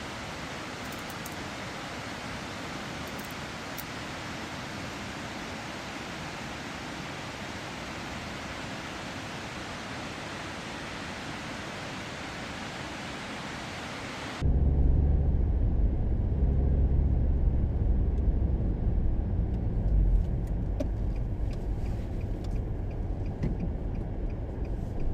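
A steady rushing noise, which cuts off suddenly about two-thirds of the way in to the low, steady engine and road rumble of a car driving.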